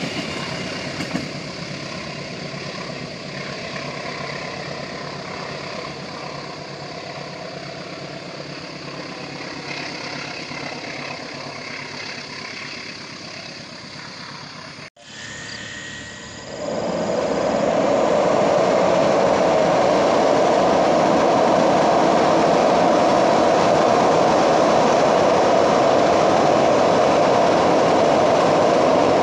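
Train running away along the track, its rumble slowly fading; after a sudden cut about halfway through, a train crossing a steel truss bridge rumbles loudly and steadily.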